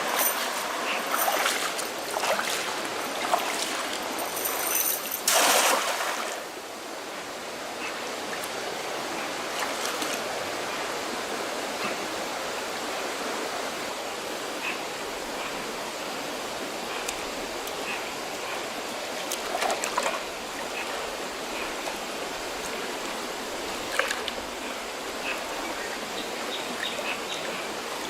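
Running water, a steady rushing like a small stream. There are scattered knocks and clatters in the first six seconds and a few single clicks later.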